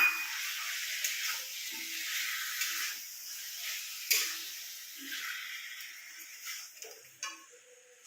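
Chicken and freshly added tomato paste sizzling in a pan of hot oil, with a spatula knocking against the pan a few times. The sizzle dies down toward the end.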